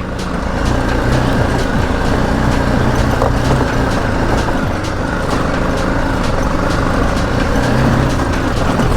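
Single-cylinder engine of a BMW G 310 GS motorcycle running steadily while under way, with a dense rush of wind and road noise at the helmet camera.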